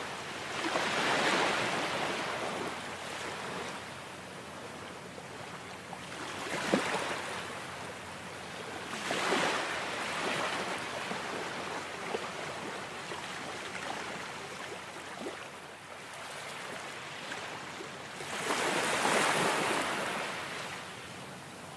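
Ocean surf: waves breaking and washing ashore, a rushing noise that swells and fades every few seconds. The largest surges come about a second in and again late on.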